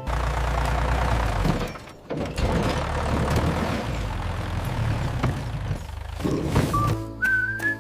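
A steady low rumble with a hiss over it, like a motor running, dipping briefly about two seconds in. A whistled tune starts near the end.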